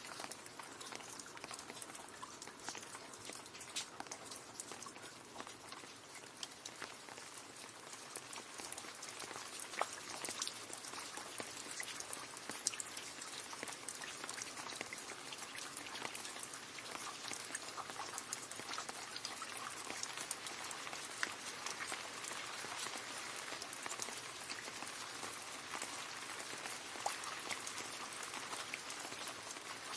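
Rain falling steadily into a puddle: a constant patter of drops splashing on water, with individual sharper drips now and then.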